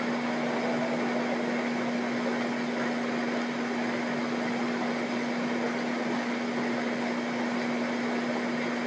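Steady mechanical hum: an even hiss with one constant low tone, unchanging throughout.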